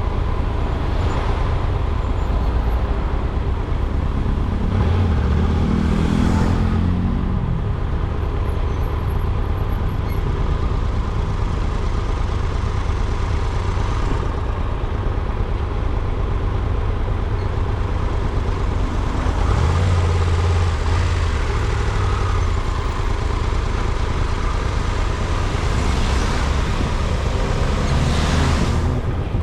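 Car on the move: a steady engine and road rumble, with the engine note rising a few times, about five seconds in, around twenty seconds in and near the end.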